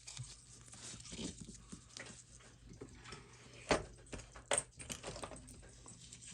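Small clicks and taps of a watch and tools being handled on a workbench, with two sharper clicks near the middle.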